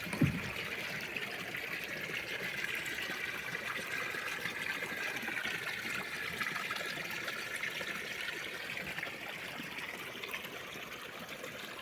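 Pool vacuum cleaner working in pool water: a steady trickling, flowing water sound with a faint whine that dips in pitch midway and rises again. A single low thump comes right at the start.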